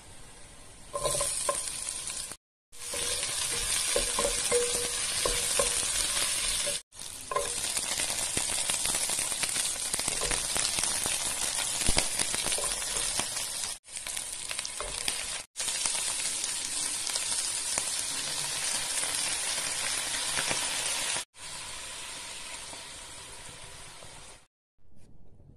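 Garlic, onions and vegetables sizzling in hot oil in a frying pan, stirred with a wooden spatula. The sizzle is loud and steady but breaks off briefly several times, and is quieter near the end.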